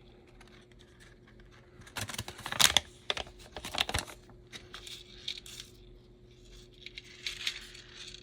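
Small hard parts clicking and rattling on a bench, with the crinkle of a small plastic parts package being handled; the clicks cluster about two to four seconds in, and softer crinkling follows. A faint steady hum runs underneath.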